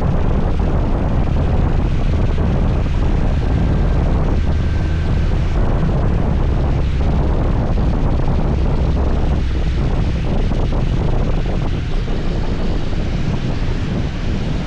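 Steady wind buffeting the microphone of a rider on a moving scooter, a loud rushing noise heaviest in the low end, with road and engine noise beneath it.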